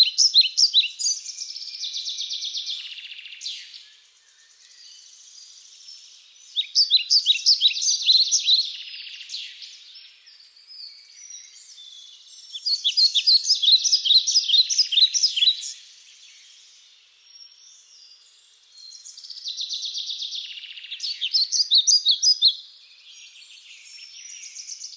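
A bird calling in repeated bouts of rapid, chattering high notes. Each bout lasts two to three seconds, with a bout about every six seconds.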